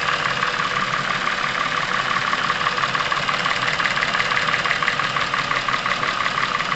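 Chevrolet Epica engine running with a loud, rapid, even ticking clatter from the top end. This is hydraulic valve lifters knocking and camshafts noisy, the sign of oil starvation in the cylinder head.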